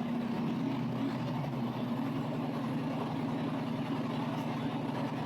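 Diesel train engine droning steadily, heard from inside the carriage, its note shifting slightly about a second in.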